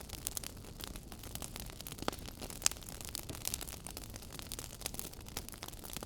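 Wood fire crackling in a fireplace: a dense run of small pops and snaps over a low hiss, with a sharper pop just under three seconds in.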